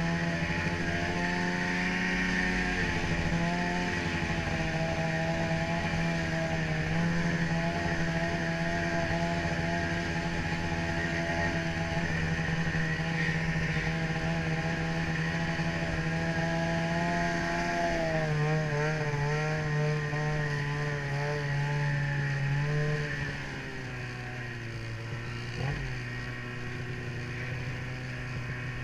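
Ski-Doo snowmobile engine running at a steady pitch after climbing at the start, wavering up and down about two-thirds of the way through, then easing off to a lower, quieter run near the end.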